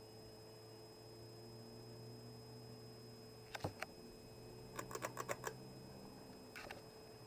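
Small Hunter bath/vanity ceiling fan motor humming faintly and steadily, with a few sharp clicks about halfway through and a quick run of clicks a little later. Its low hum drops near the end.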